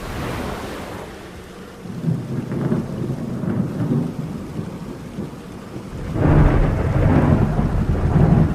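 Thunder rumbling over steady rain, in several rolls, the loudest and longest starting about six seconds in.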